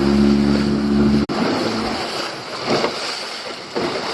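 Boat engine running steadily, cut off abruptly about a second in. After that, wind buffeting the microphone and water noise with a few brief surges.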